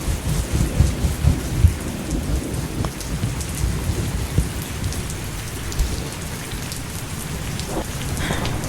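Thunderstorm: steady rain falling with low thunder rumbling, the rumble heaviest in the first two seconds.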